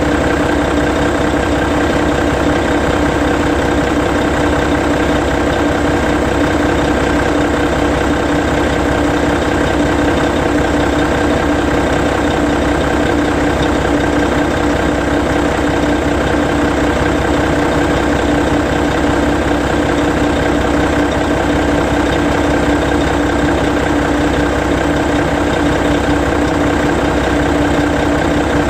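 Hino E13C 12.9-litre inline-six diesel engine of a Hino Selega coach idling steadily while parked with the parking brake set.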